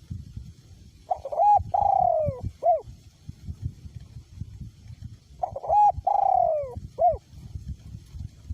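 Male spotted dove cooing twice, about four seconds apart: each phrase is a couple of short notes, a long falling coo and a short closing note. Wind rumbles on the microphone throughout.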